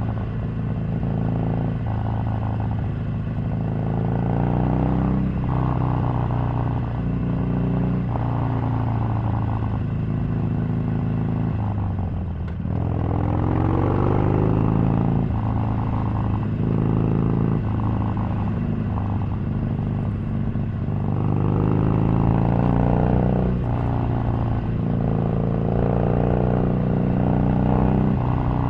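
Harley-Davidson Sportster 883's air-cooled V-twin engine running under way, its pitch rising and falling with the throttle. The revs drop about halfway through, then climb again, with another climb later on.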